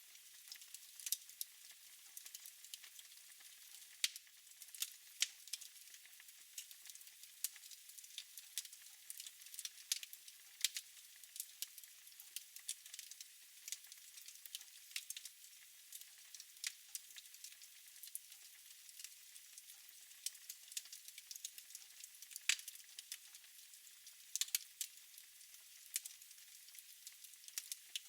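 Wood fire burning in a fireplace, crackling: irregular sharp crackles, several a second, over a faint hiss, with a louder pop now and then.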